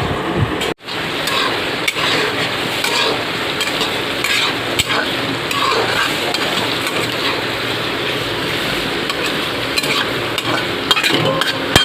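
Food frying and sizzling in oil in a cooking pan while being stirred, with scattered clicks and scrapes of the spoon against the pan. The sound drops out briefly about a second in.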